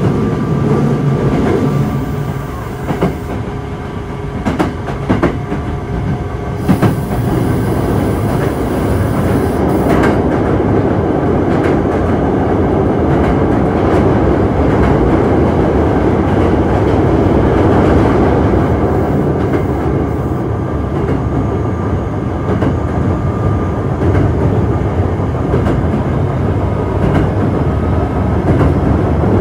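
Onboard running sound of an Osaka Metro 66 series electric train with a Toshiba IGBT inverter. Wheels click over rail joints a few times in the first several seconds, then a steady rolling rumble sets in at speed, with a faint steady motor whine.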